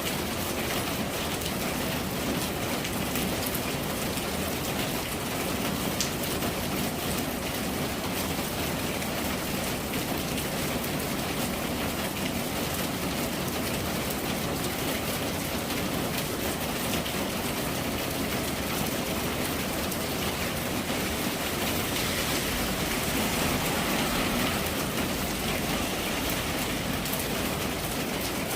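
Steady rain falling, a dense even patter, a little heavier for a few seconds near the end.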